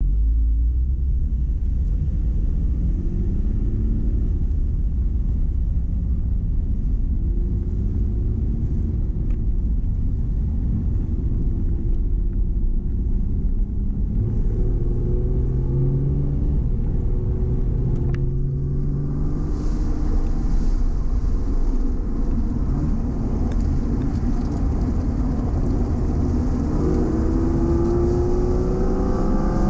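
Porsche engine heard from inside the cabin, rolling out at low revs with its pitch rising and falling, then pulling harder. About two-thirds of the way through, wind and tyre hiss join in, and the engine note climbs steadily near the end as the car speeds up.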